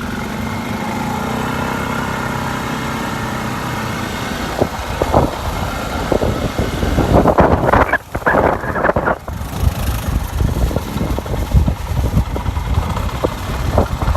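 Quad bike engine running, steady for the first few seconds. From about four seconds in it turns uneven, with knocks and surges of noise.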